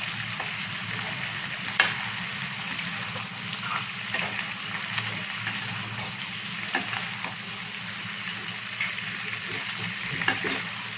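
Chilli chicken with onion, capsicum and green chillies sizzling in a hot pan while it is stirred, with a few sharp knocks of the stirring utensil against the pan.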